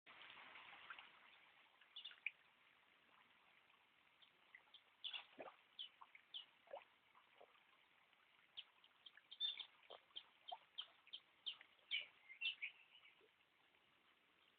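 Birds singing: faint, scattered short chirps and quick down-slurred whistles, becoming a rapid run of sharp notes about two-thirds of the way through.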